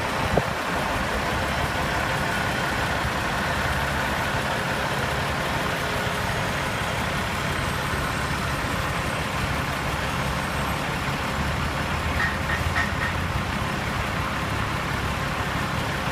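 A heavy truck engine idling steadily, with a single knock just after the start and three short high beeps about twelve seconds in.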